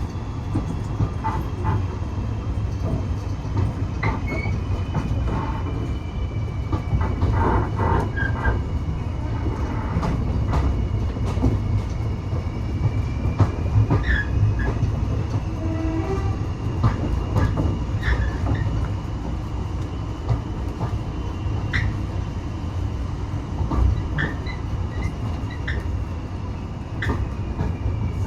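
Railway carriage of a heritage train running along the track: a steady rumble with scattered clicks and knocks from the wheels over the rail joints. A faint high squeal drifts slowly in pitch throughout.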